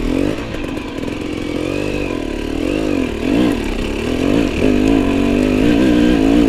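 Enduro motorcycle engine running at low revs, its pitch rising and falling repeatedly as the throttle is worked.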